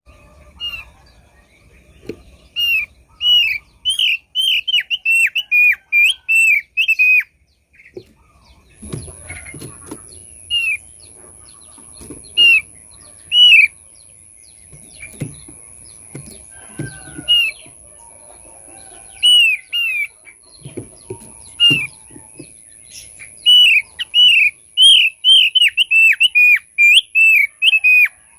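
Thick-billed white-eye (opior paruh tebal) singing: rapid runs of short, sharply slurred whistled notes in three bouts, the densest near the start and the end. Dull low knocks come now and then through the middle, and a faint steady very high tone comes in about nine seconds in.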